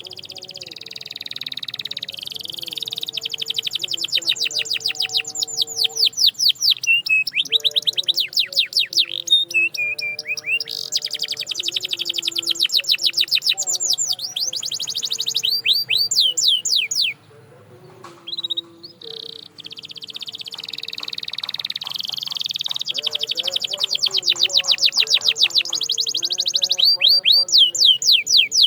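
Canary singing a long song of rolling trills and fast runs of repeated sweeping notes. The song breaks off about 17 seconds in and starts again a couple of seconds later, building back up.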